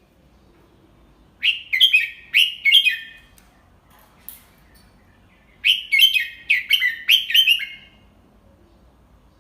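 Red-whiskered bulbul singing two short phrases of quick, bubbling notes, a few seconds apart.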